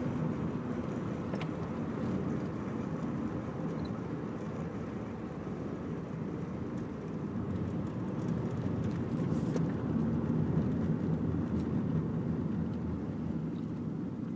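Subaru Impreza 2.0 Turbo's flat-four engine and road noise while driving. The steady running swells gradually, loudest about two-thirds of the way through, then eases slightly.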